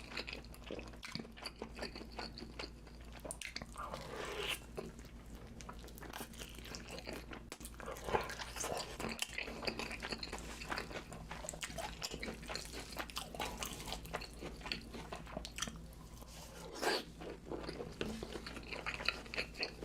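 A person biting and chewing food, a dense, irregular run of crunches and wet clicks over a steady low hum.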